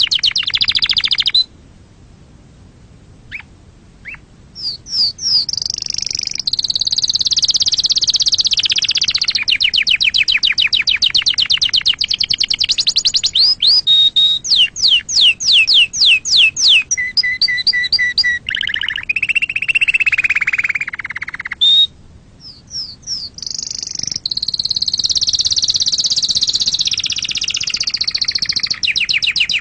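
Domestic canary singing a long varied song of fast trills: rapid repeated notes, a run of slow sweeping whistles in the middle and a lower steady trill, with two short pauses, one a couple of seconds in and one about two thirds of the way through.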